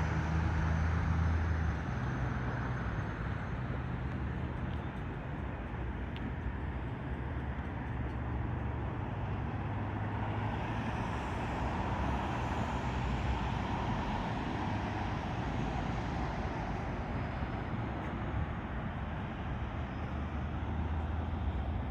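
Steady road-traffic rumble from passing cars, with one vehicle swelling louder and fading about halfway through.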